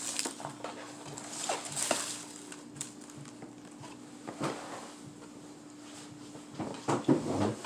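Close-up eating sounds: biting into and chewing fried chicken strips, with scattered crunches and wet mouth noises, a louder cluster about two seconds in and another near the end. A faint steady hum runs underneath.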